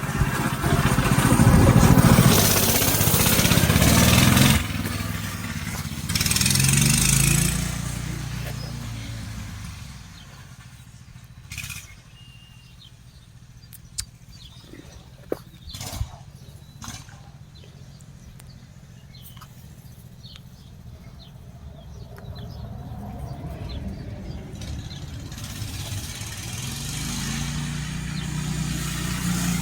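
Minibike engine revving in bursts as the bike rides off, fading into the distance by about ten seconds in. A few sharp clicks sound in the quiet middle, and the engine grows louder again as the bike comes back near the end.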